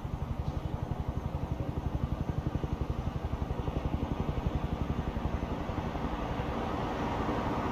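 A vehicle engine running with a fast, even low throb, about five or six pulses a second, which smooths out and grows a little louder near the end.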